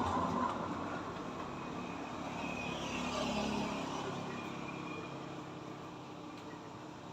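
A motor vehicle's engine hum, fading steadily as it moves away.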